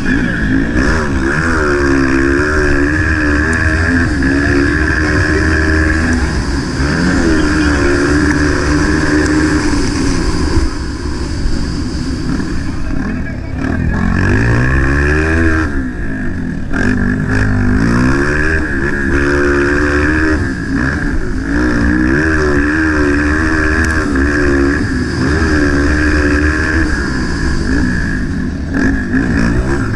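Motocross bike engine in the 230 class racing, revving up and dropping back again and again as it accelerates, shifts and slows for corners.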